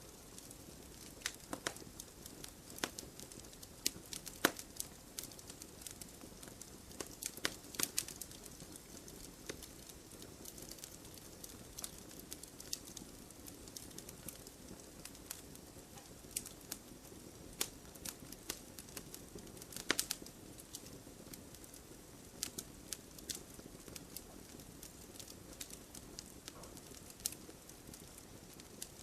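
Wood fire burning slowly in a fireplace: irregular crackles and sharp pops over a soft steady hiss.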